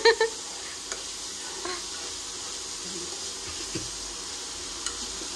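Chopped shallots, tomato and green chilli sizzling gently in oil in a pan as they sauté: a steady soft hiss.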